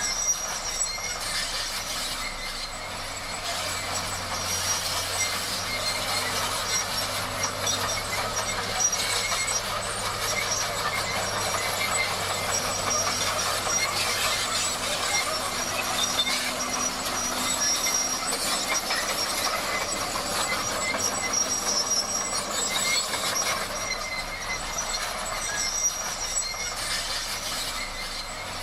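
Bulldozer working: a steady engine under a dense metallic clatter and squeal of its crawler tracks.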